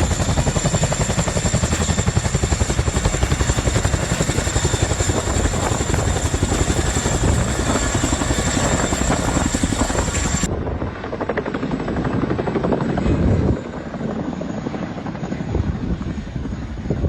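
Helicopter rotor beating rapidly and steadily, with a thin high whine over it that cuts off abruptly about ten seconds in, after which the rotor sound goes on less brightly.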